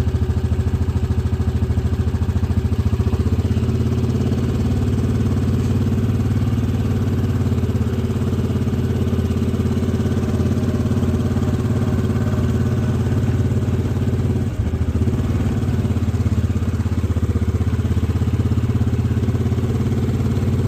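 Four-wheeler (ATV) engine running steadily at one even pitch, with a brief dip about two-thirds of the way through.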